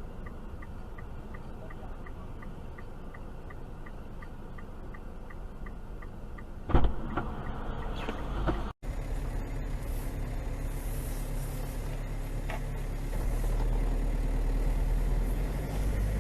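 Car road noise from a dashcam, a steady low rumble with a regular ticking of about two ticks a second. Nearly seven seconds in there is a sudden loud bang with some rattling, a collision impact. After a brief break, a louder steady rumble of vehicle and road noise follows.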